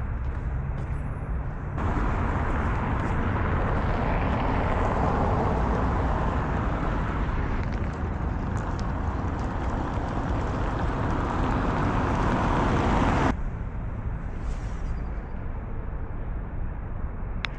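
Urban outdoor ambience of steady road-traffic noise. It becomes louder and fuller about two seconds in, then drops back abruptly near the end.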